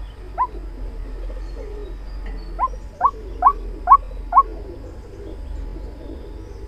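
White-breasted waterhen calling: one short rising note, then about two seconds later a run of five quick rising notes, two or three a second, over a low steady hum.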